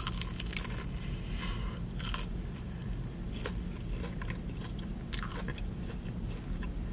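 Close-up chewing of a crispy Korean fried mozzarella corn dog, with many small crisp crunches of the fried coating between the teeth.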